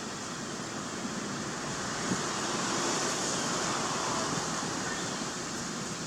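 A steady rushing noise that swells for a few seconds in the middle, with one faint click about two seconds in.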